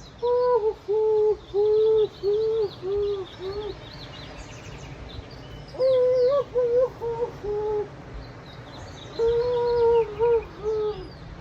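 A man's voice hooting short 'hoo' notes in three runs, about seven, then five, then four, each run falling slightly in pitch, as a made-up sound to go with the inchworm exercise. Faint bird chirps sound higher up in the background.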